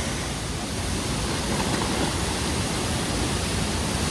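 Waterfall pouring into a deep natural pool: a steady rushing of falling water.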